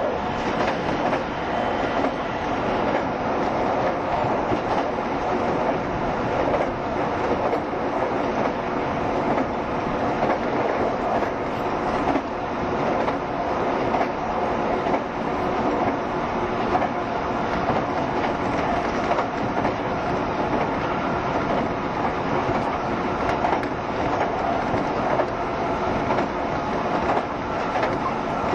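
A JR Shikoku 7200 series electric multiple unit running between stations: steady running noise of the wheels on the rails, with a few faint steady tones in it.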